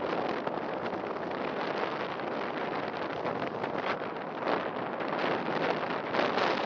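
Strong wind blowing across the microphone: a steady rush that swells and eases in gusts, a little stronger near the end.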